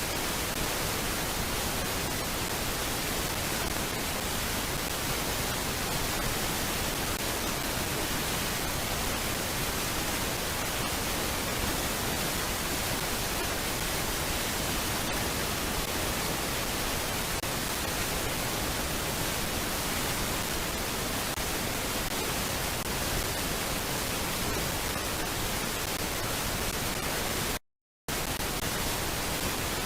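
Steady, even hiss of static from a nest camera's audio feed; it cuts out to silence for a moment near the end.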